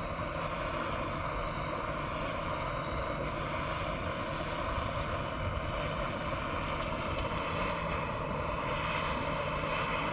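Plumber's torch flame burning steadily as it heats a soldered copper pipe joint.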